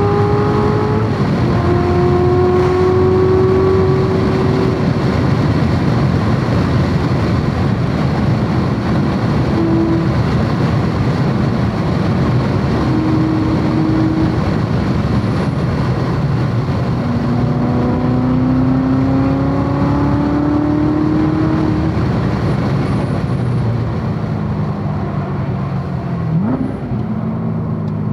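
C7 Corvette Z06's supercharged V8 at full track pace, heard from on board over heavy wind and tyre noise. The engine pitch climbs through the gears and drops back at the shifts, with a quick rising blip near the end.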